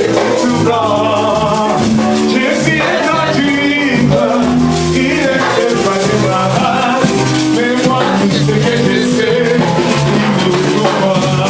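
Live worship band music with a steady shaker rattle over plucked guitar and held notes, continuous and loud.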